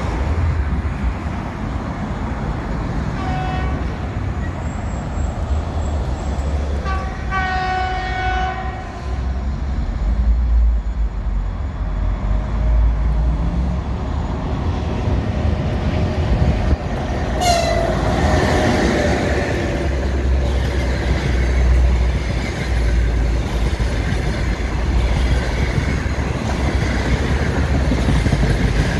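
EP1M electric locomotive sounding its horn twice as it approaches: a short toot, then a longer blast. From about halfway through, the locomotive and its passenger coaches pass close by, with loud rolling noise and wheel clatter.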